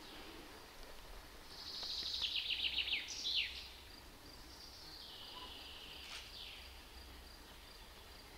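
A songbird sings one loud trill of rapid notes that falls in pitch and ends in a quick downward flourish, about two seconds in, with fainter downward calls a few seconds later. A steady thin high tone, like an insect, runs under it.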